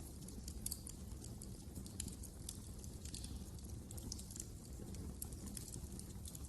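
Wood fire crackling: frequent small irregular pops and snaps over a low steady rumble.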